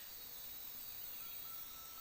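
Forest ambience: a steady high hiss of insects, with a faint thin whistle holding one pitch from about a second in.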